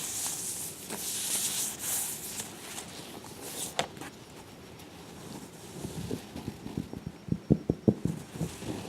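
Fingers scratching and rustling on a faux leather cat carrier for the first few seconds, then a quick run of about eight soft, dull taps on it near the end.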